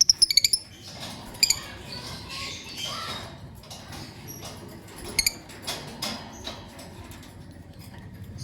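Lovebirds chirping: a quick run of sharp, high chirps at the start, then scattered single and paired chirps.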